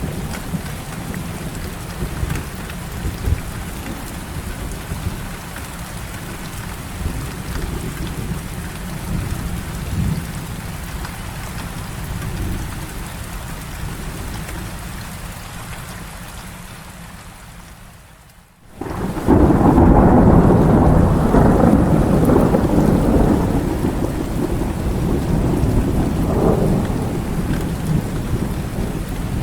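Heavy rain falling steadily over a low rumble of thunder. After a sudden brief drop in level a little past halfway, a loud, long peal of thunder breaks in and rolls on for about ten seconds, slowly easing.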